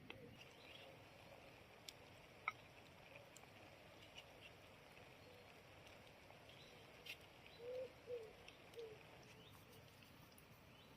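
Faint outdoor quiet with scattered small bird chirps, and three short low bird calls in quick succession about eight seconds in. A single sharp click about two and a half seconds in is the loudest sound.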